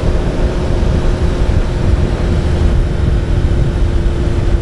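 Motorcycle cruising at steady highway speed: a steady engine drone over a heavy, even low rumble.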